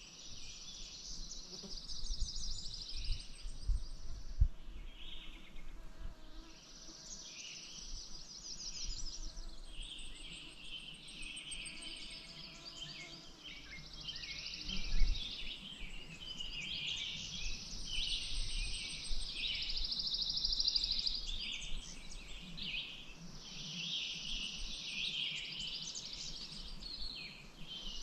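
Songbirds singing: one bird repeats a high, rapid trilled phrase of a few seconds every few seconds, with shorter chirps from others in between. A few brief low bumps, the loudest about fifteen seconds in.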